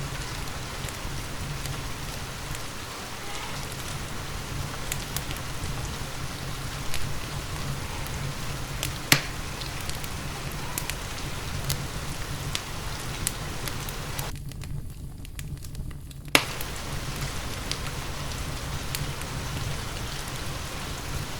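Steady rain mixed with a crackling wood fire in a fireplace: a constant hiss with a low rumble and scattered small pops, two louder snaps about 9 and 16 seconds in. For about two seconds near the end, everything but the low rumble drops out.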